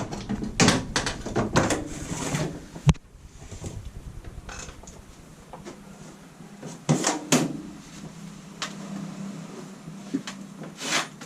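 Knocks, clanks and scraping of tools and metal parts being handled, with a sharp single click about three seconds in and more clatter around seven and eleven seconds.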